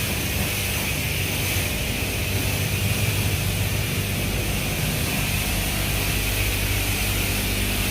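Car wash high-pressure spray running steadily: an even hiss over a constant low hum from the wash equipment.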